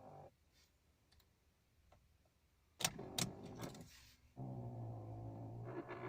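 Ignition key of a 2015 Ford Ka clicking sharply twice about three seconds in, then a steady low buzzing drone for the last second and a half: the odd noise the car makes when the key is turned.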